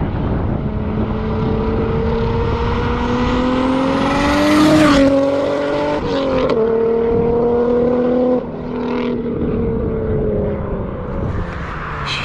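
Nissan Skyline R32 GT-R's forged RB26 twin-turbo straight-six pulling hard, its pitch climbing for about five seconds with a high whistle rising alongside. The pitch then drops and steps again around six and a half seconds in, as on a gear change, before the engine eases off and falls away near the end.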